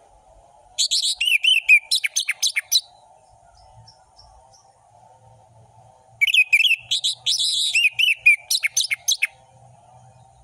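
Orange-headed thrush (anis merah) singing two loud bursts of full-variation song, each two to three seconds long, about a second in and again about six seconds in, mixing rapid whistles, trills and sharp clipped notes. A faint steady hum runs underneath.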